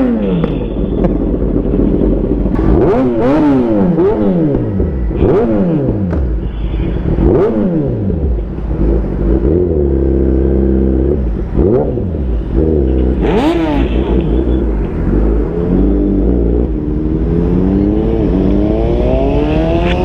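Sport motorcycle engine revved hard while standing, in about eight quick throttle blips that each climb sharply and fall back toward idle, with a short steady idle around the middle; near the end a longer rev climbs gradually.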